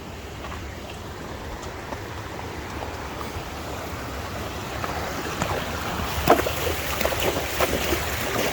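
Wind rushing over the microphone, building louder over the second half, with irregular sharp knocks mixed in.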